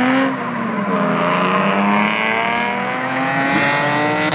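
Drift car's turbocharged KA24 four-cylinder engine held at high revs through a slide. Its pitch dips briefly just after the start, then climbs steadily.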